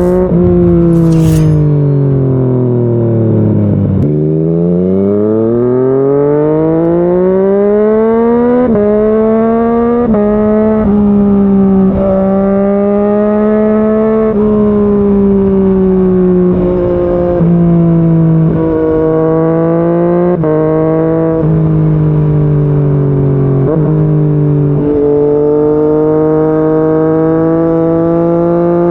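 Yamaha MT-09's inline three-cylinder engine through a Yoshimura R55 slip-on exhaust, under way. The engine note falls for about four seconds, then climbs, and after that jumps in pitch several times between steadier stretches, as the rider changes gears.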